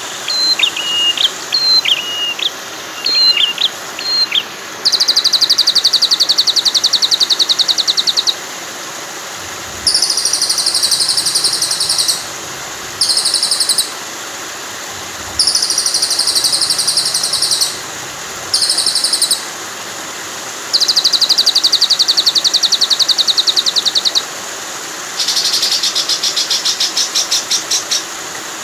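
Recorded songbird calls over a steady rush of running water. For the first few seconds there are short whistled notes that slide in pitch. After that comes a run of fast, high, buzzy trills, each lasting one to three seconds, with short gaps between them.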